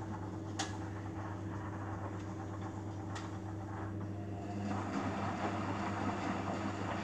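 Beko washing machine drum motor humming steadily as the drum turns during a rinse, with two light clicks. The rinse is running without any cold water being filled, the fault the owner points to.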